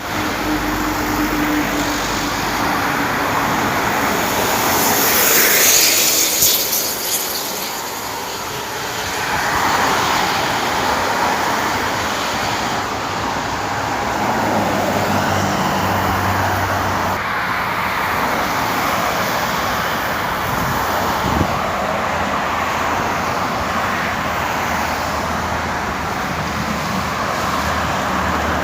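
Steady traffic noise on a toll road, with a vehicle rushing past about five to seven seconds in. Low engine tones from passing heavy vehicles follow later.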